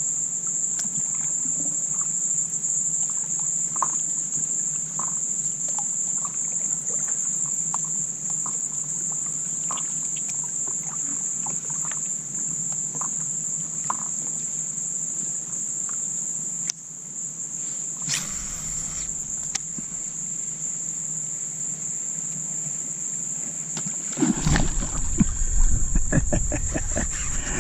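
Steady, high-pitched, continuous drone of insects in a marsh, with faint scattered ticks. About 24 seconds in, a louder low rumble with rapid knocks joins in.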